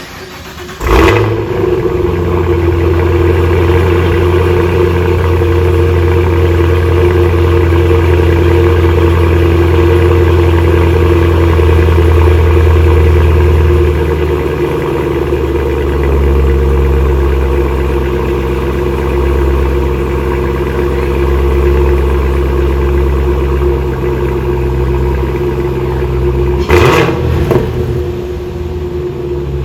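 Cadillac CT5-V Blackwing's supercharged 6.2-litre V8 firing up about a second in with a loud flare, then holding a loud, steady cold-start high idle through the exhaust. The idle eases down a step about halfway through.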